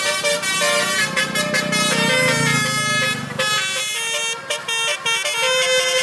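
Truck basuri horn, a multi-trumpet musical air horn, playing a melody in quick changing notes. A low rumble swells underneath in the middle.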